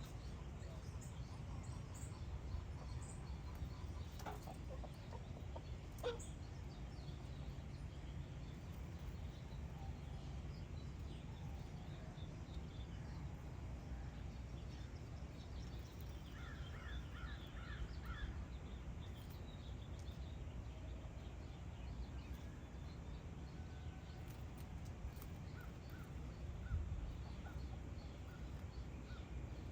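Outdoor birdsong: scattered short bird calls, including a quick run of about six notes about two-thirds of the way through, over a steady low rumble.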